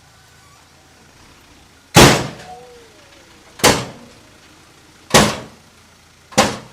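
Four loud, sudden bangs about a second and a half apart, each dying away quickly, over a faint steady background.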